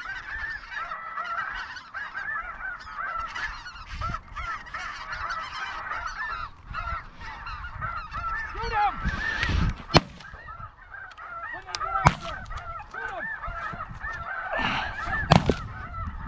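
A flock of snow geese calling continuously with many short, high honks. Three sharp shotgun shots cut through, about ten, twelve and fifteen seconds in.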